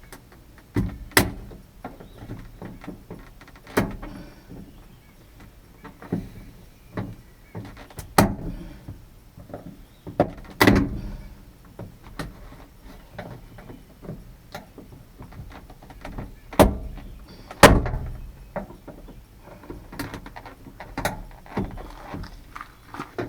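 Irregular knocks, clicks and clunks of hand work on a 1992 Nissan pickup's door while its outside handle is being replaced, with one sharp bang about three-quarters of the way through.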